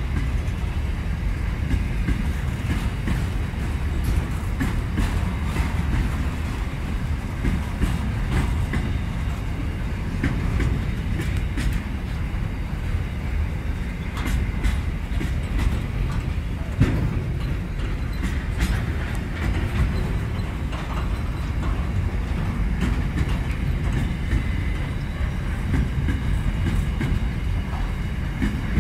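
Container freight train wagons rolling past at close range: a steady rumble of wheels on rail, with scattered clicks and clatter as the wagons go by.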